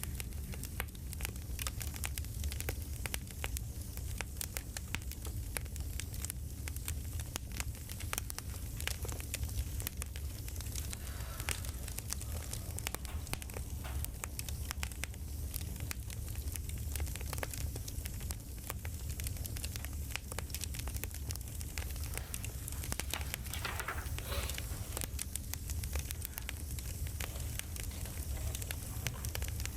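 Campfire crackling: a steady stream of small pops and snaps over a low rumble of burning wood.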